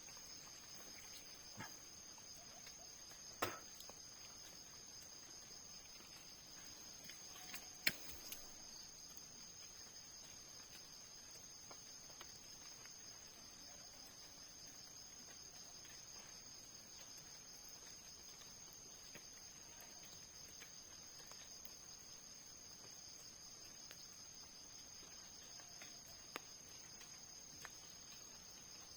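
Faint, steady high-pitched chorus of insects such as crickets, with a few faint knocks, one about three and a half seconds in and two around eight seconds.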